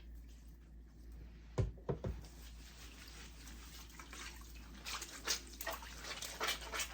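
Water splashing and sloshing as a wig is washed by hand in a basin of water. There are two thumps about one and a half to two seconds in, and a busier run of splashing near the end.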